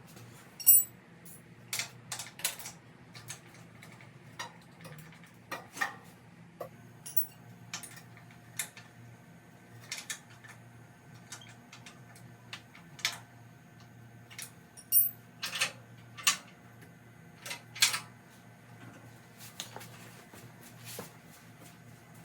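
Metal tools clinking and tapping against the tractor's housings and bolts: irregular sharp knocks a second or two apart, a few ringing brightly, as stuck bolts are worked loose. A faint low steady hum lies underneath.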